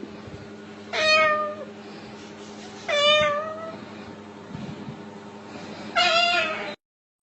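Three drawn-out meows, roughly two seconds apart, over a steady low hum; the sound cuts off abruptly near the end.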